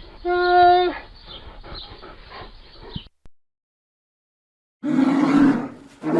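Animal calls: a short, clear pitched call near the start, then after a pause of almost two seconds, two loud, rough, growling calls about a second apart.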